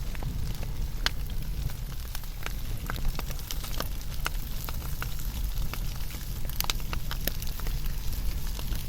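Wood fire burning, with irregular sharp crackles and pops of burning wood over a steady low rumble of the flames.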